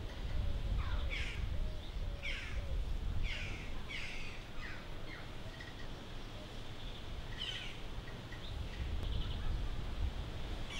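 Birds calling: a run of short, falling calls about once a second for the first five seconds, then another near eight seconds, over a steady low rumble.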